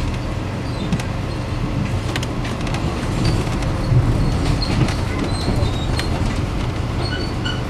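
Steady low rumble of the Overland passenger train running along the track, heard from inside the carriage, with a few light clicks scattered through it.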